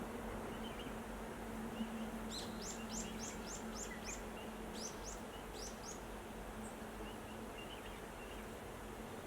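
A small bird singing. It gives a quick run of about seven high, falling notes a little over two seconds in, then a shorter run of three or four notes about five seconds in, with faint softer chirps around them. Under the song is an even background hiss and a steady low hum.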